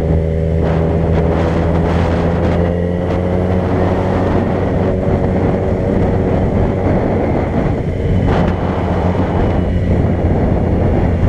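A vehicle driving at steady speed: a continuous low engine hum with road noise.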